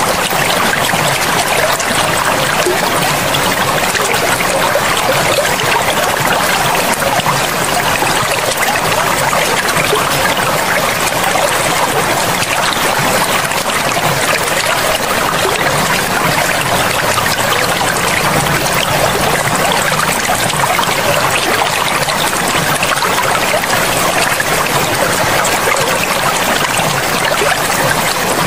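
Forest river flowing: a steady, unbroken rush of running water.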